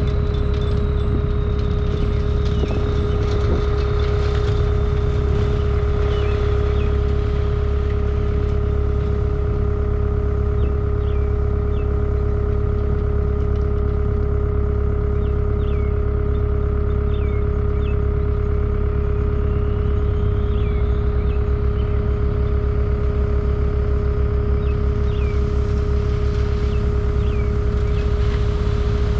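Takeuchi track loader's diesel engine running at a steady throttle, with a steady high whine over the engine note.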